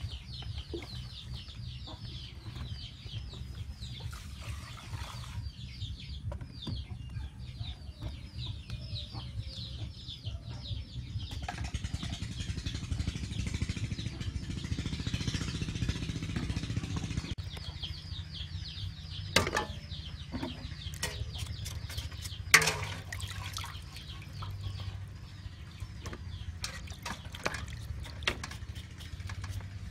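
A bird, likely a chick or other fowl, peeping in quick runs of high, falling chirps, several a second, with a pause of a few seconds in the middle, over a steady low hum. Two sharp knocks come about two-thirds of the way through.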